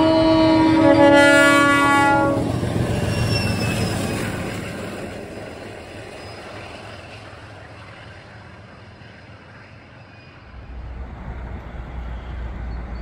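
Pair of MLW diesel locomotives passing at speed, sounding a long multi-tone horn whose pitch drops partway through and which stops about two and a half seconds in. The rumble of the passing train then fades away over several seconds. A new low rumble starts near the end.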